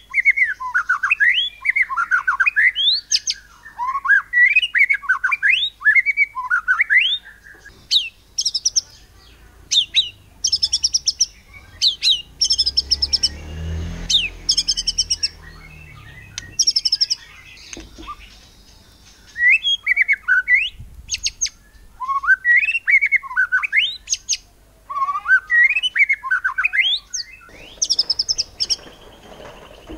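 White-rumped shama singing in rapid-fire bursts. First come quickly repeated rising whistled phrases. From about eight seconds in there is a run of fast, very high, clipped notes, and then the rising phrases return about twenty seconds in.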